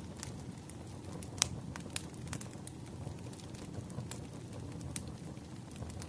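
Wood fire crackling: scattered sharp pops and snaps over a steady low rumble, the loudest pop about a second and a half in.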